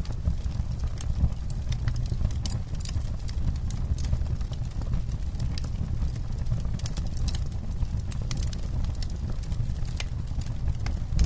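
Wood campfire burning: irregular sharp crackles and pops over a steady low rumble of the flames.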